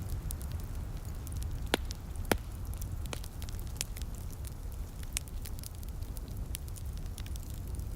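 Wood fire crackling in a fireplace: scattered sharp snaps and pops, two of them louder a little under two seconds and about two and a half seconds in, over a steady low rumble.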